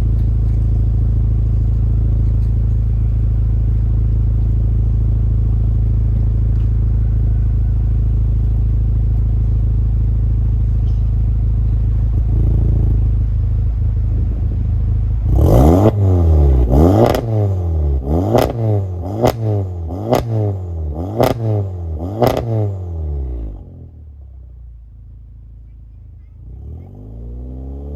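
Car exhaust with the engine idling steadily, then a series of quick throttle blips, about one a second, each revving up and falling back. It settles to a quieter idle, then starts to rev again near the end.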